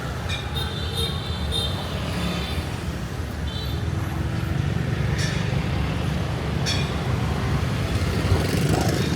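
Road traffic: a steady low rumble of vehicle engines, with a few short high-pitched tones over it.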